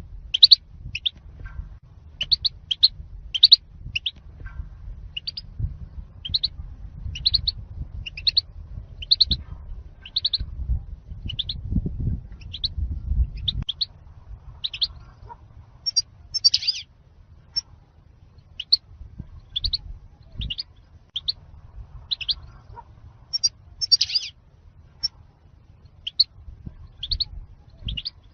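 European goldfinch calling: short, sharp, high chirps repeated about once or twice a second, sometimes in quick pairs. A low rumble sits beneath them for the first half and stops about 13 seconds in.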